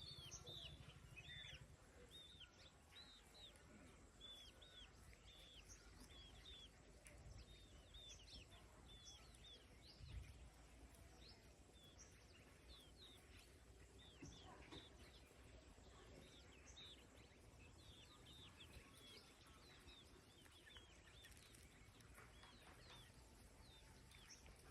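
Faint peeping of young chicks: many short chirps overlapping and repeating throughout, over a low background rumble.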